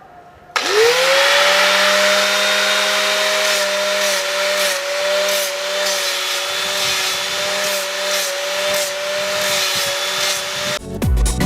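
An electric power tool starts up with a quickly rising whine and runs steadily at speed with a loud hiss. Near the end it cuts off and electronic dance music with a steady beat begins.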